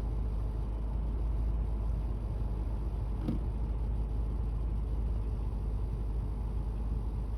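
Fire engine's diesel engine running steadily, a low rumble, as it powers the aerial ladder being raised and lowered.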